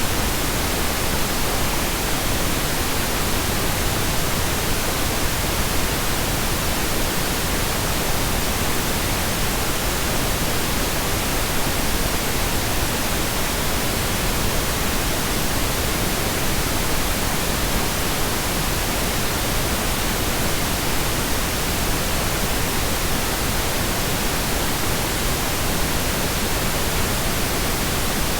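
Pink noise: a steady, even hiss spread over the whole range of pitches, with no changes.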